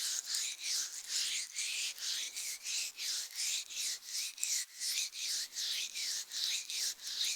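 Ear pick scraping inside an ear right at the microphone, in quick, evenly repeated strokes of about three a second.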